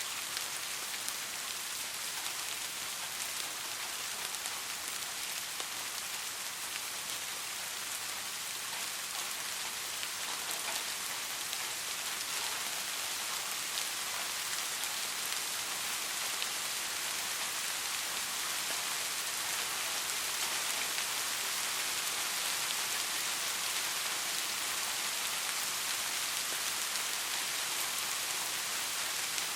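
Steady soft rain falling, an even hiss of many drops with faint individual drop ticks, without thunder.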